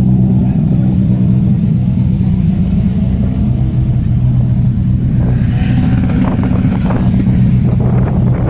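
A motor vehicle's engine running at a steady speed, a constant low hum. From about five seconds in, wind buffets the microphone.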